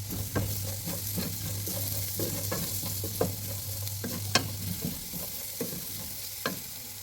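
Broad beans and garlic sizzling in oil in a pot while being stirred in with turmeric, a spoon knocking irregularly against the pot, a few knocks sharper than the rest.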